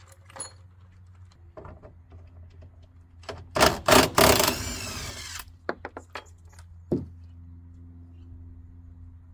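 Work on metal with hand tools: scattered clinks and knocks, with a loud rough noise lasting about two seconds near the middle, then a steady low hum.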